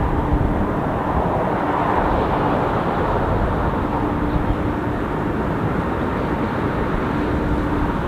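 Steady noise of a jet airliner's engines, an even rush with a faint steady hum.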